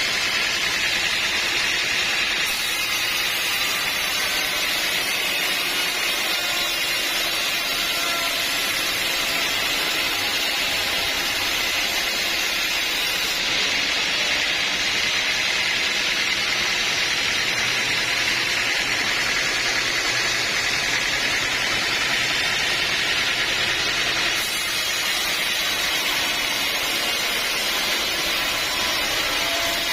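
Sawmill saw running with a steady, loud, even noise and no breaks.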